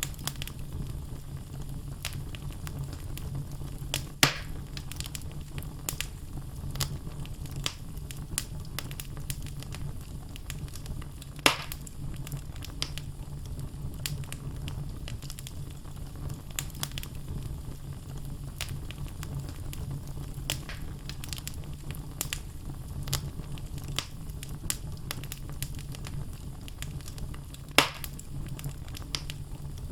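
Wood logs burning in a fireplace, crackling with many small snaps over a steady low rumble of the flames. Three louder, sharper pops stand out: about 4 seconds in, about 11 seconds in, and near the end.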